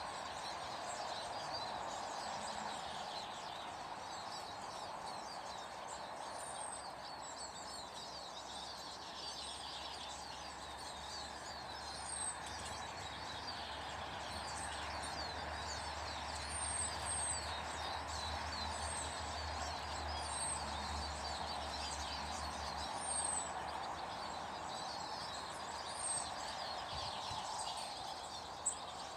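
Several small birds chirping and twittering, with a high, thin falling call repeated every second or two, over steady background noise.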